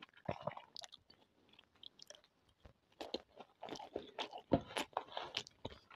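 A person chewing food: a scatter of small crunches and mouth clicks, sparse at first and more frequent from about halfway.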